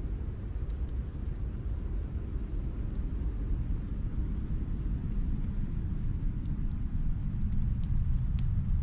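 Crackling fireplace: scattered sharp pops and crackles over a steady low rumble that slowly grows louder.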